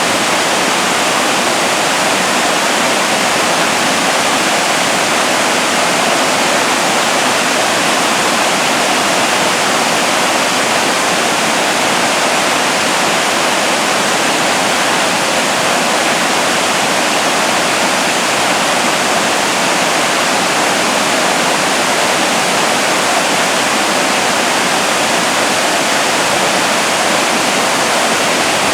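Waterfall pouring, a loud, steady rush of falling water that does not change.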